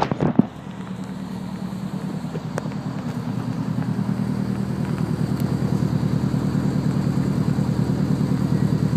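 Car engine idling through a quad-tip exhaust, a steady low pulsing burble that slowly gets louder over the first few seconds. A couple of sharp knocks right at the start.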